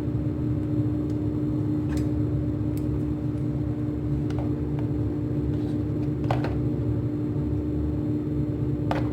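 Steady mechanical hum with a constant tone over a low rumble, and a few faint clicks scattered through it.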